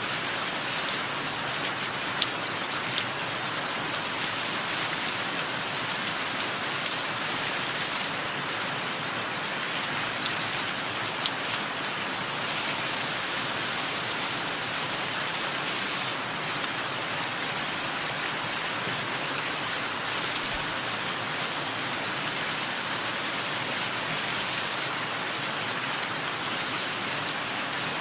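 Steady rain with a bird chirping over it: short, high notes that fall in pitch, in groups of two or three every few seconds.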